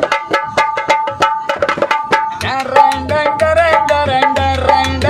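Dholak drumming in a fast, steady rhythm with a melody line over it that grows fuller and moves about two and a half seconds in: the instrumental lead-in to a song.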